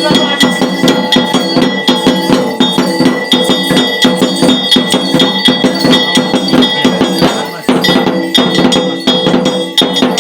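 Bells and metal percussion beaten fast and without a break, about five or six strikes a second, with ringing bell tones over them: devotional ritual music. The beating briefly slackens twice, the second time near the end.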